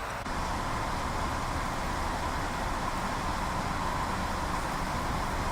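Steady road traffic noise: a continuous rumble and hiss, with a brief drop just after it begins.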